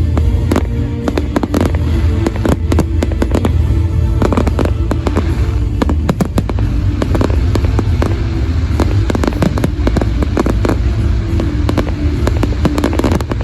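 Fireworks going off in quick, irregular bangs and crackles, with music playing over loudspeakers and a heavy low rumble underneath.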